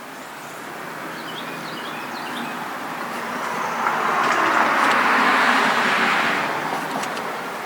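A vehicle passing by: a steady rushing noise that swells up, is loudest about five seconds in, then fades away.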